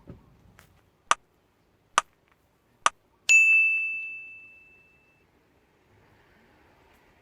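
Three sharp ticks about a second apart, then a single bright bell-like ding that rings out and fades over about two seconds. The background drops to dead silence between the ticks, so this is an edited-in sound effect.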